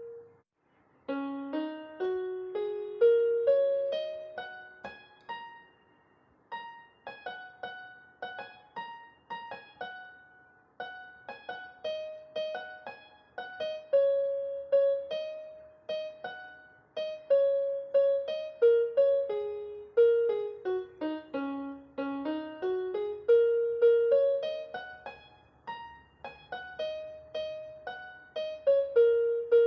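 Background music: a gentle piano melody of single struck notes, each fading away, with a brief pause about a second in.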